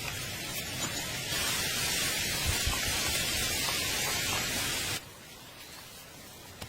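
A steady hissing noise that cuts off suddenly about five seconds in, leaving a quieter background.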